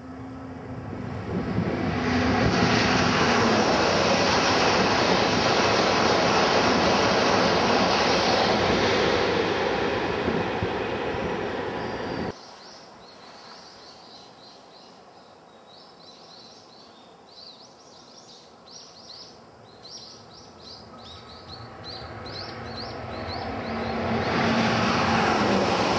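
Tohoku Shinkansen high-speed trains passing: a loud rushing roar with a falling whine as one train goes by, cut off abruptly about halfway through. Then comes a quiet stretch with faint high chirps, and near the end the next train's roar builds with another falling whine.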